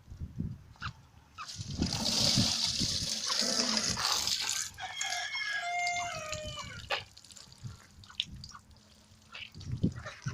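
Water splashing from an outdoor tap for about three seconds, then a rooster crows once, a crow of about two seconds, with a few light knocks afterwards.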